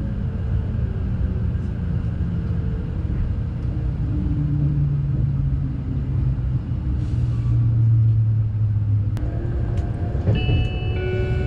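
A train running with a steady low rumble and a hum that shifts in pitch. Near the end a few held musical notes come in over it.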